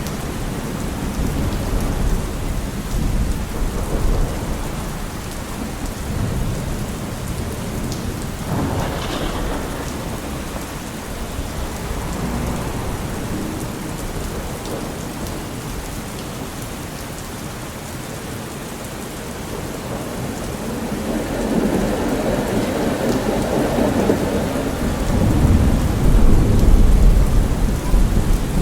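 Steady rain falling. A low rumble swells up over the last several seconds and peaks near the end.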